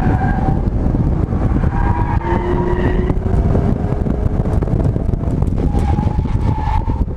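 Chevrolet Camaro's engine heard from inside the cabin at full effort on an autocross course, over heavy tyre and road rumble. Its pitch climbs about two seconds in as the car accelerates hard, then changes near the end as it comes off the throttle and brakes.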